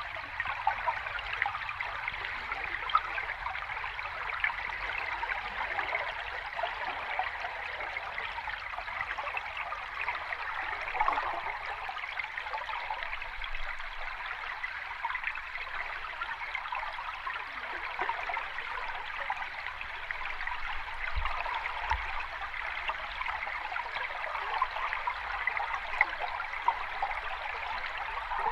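Sea water washing and trickling steadily, a continuous fine splashing with no distinct surges of breaking waves.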